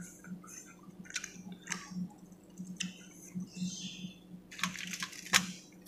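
A person chewing a mouthful of grilled fish, with soft wet mouth sounds and scattered small clicks and smacks.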